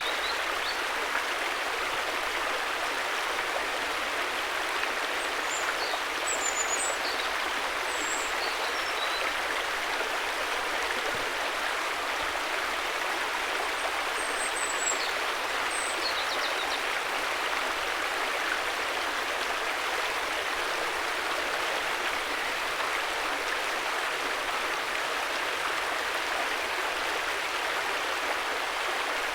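River water flowing steadily, an even rushing sound, with a few faint high chirps over it now and then.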